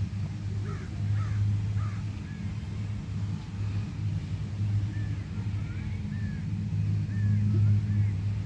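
Birds giving short, repeated chirping calls over a steady low hum.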